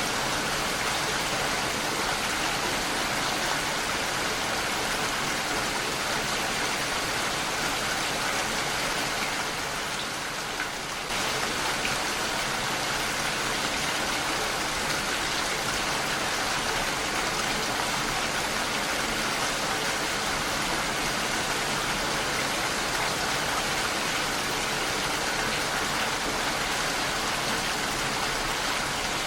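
Heavy rain falling steadily on a window, a dense even hiss. About ten seconds in it briefly thins and then comes back abruptly.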